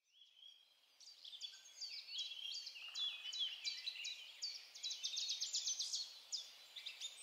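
Songbirds singing, several overlapping chirps and whistled phrases with a fast trill in the middle, over a faint hiss of woodland ambience. The song starts about a second in.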